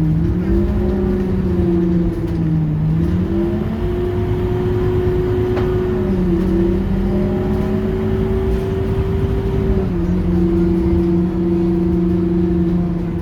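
Scania K230UB city bus's engine and drivetrain running under way with a loud low rumble and a steady two-tone hum. The hum steps down in pitch and climbs back up a few times, around three seconds in, about six seconds in and about ten seconds in.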